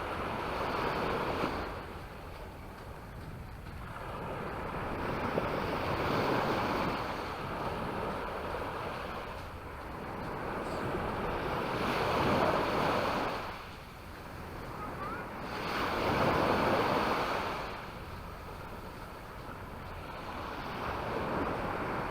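Waves breaking on a beach shore, the surf noise swelling and falling back about every four to six seconds, with wind rumbling on the microphone.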